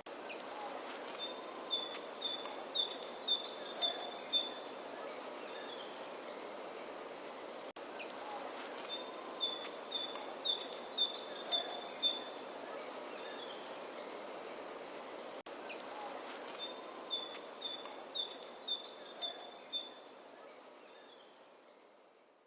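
A songbird singing the same phrase three times, about every eight seconds: a few high falling notes, then a run of short repeated notes. Under it is a steady outdoor background hiss, and it all fades out near the end.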